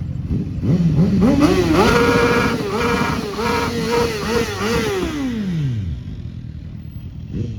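A vehicle engine revving hard: the revs climb, hold high with brief dips and pick-ups, then fall away smoothly and die down. A second rev starts near the end.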